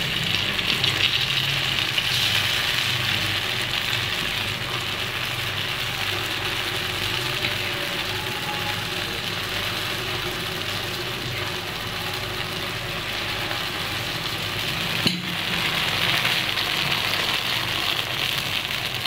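Paniyaram batter sizzling in hot oil in the wells of a kuzhi paniyaram pan as ladlefuls are poured in, with a steady low hum underneath. A single click sounds about fifteen seconds in.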